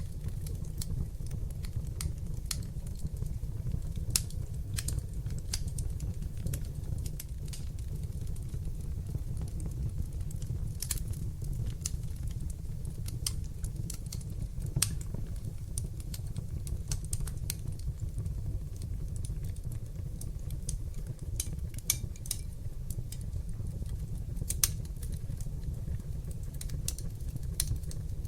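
Fire burning in a fireplace: a steady low rumble of flames with constant irregular crackling and sharp pops, a few of them louder than the rest.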